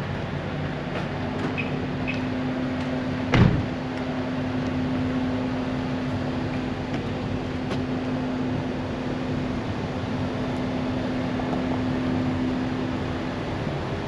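A steady mechanical hum over background noise, with one loud thump about three and a half seconds in.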